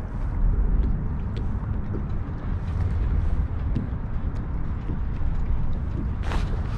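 Wind buffeting the microphone as a steady low rumble, with scattered small clicks and a short rush of noise near the end.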